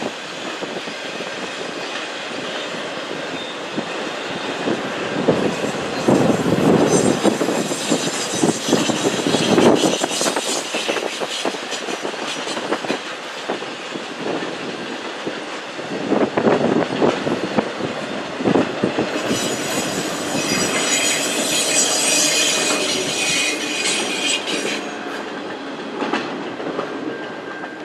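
Cars of a long intermodal freight train rolling past, wheels clattering over the rails. High-pitched wheel squeal rises in spells, once around a third of the way in and more strongly in the latter part.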